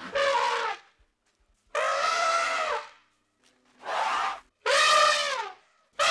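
Elephant trumpeting: four separate calls of up to about a second each, some dipping in pitch as they end, with a fifth starting just at the end.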